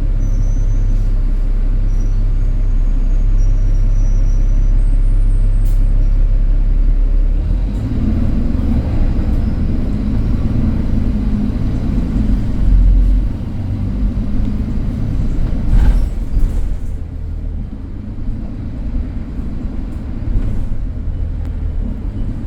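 Interior sound of an ADL Enviro300 single-deck bus on the move: a steady low engine drone that changes about seven to eight seconds in, with heavier thumps around thirteen and sixteen seconds in.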